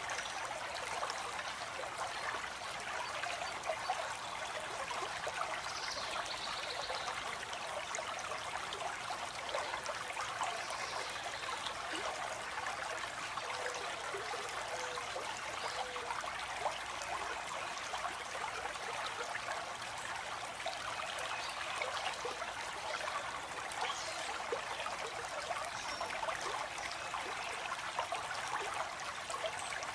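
Stream water flowing and trickling steadily, with a few faint short bird calls now and then.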